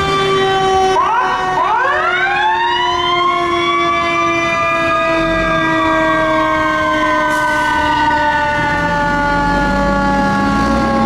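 Fire engine siren winding up in a rising sweep about a second and a half in, then slowly winding down, over a second steady siren tone that slides gradually lower as the apparatus passes. The truck's engine rumbles beneath and rises in pitch near the end.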